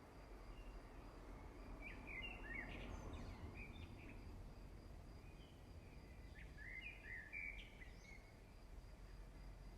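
Faint bird chirps, short high notes in two brief clusters, over a low steady background hum.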